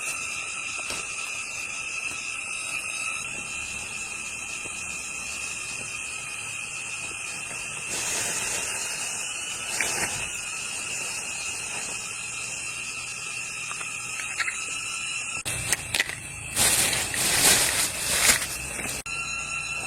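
Steady, high-pitched insect drone, typical of crickets or cicadas, running unchanged. Near the end come a few seconds of louder, harsh noise with some sharp knocks.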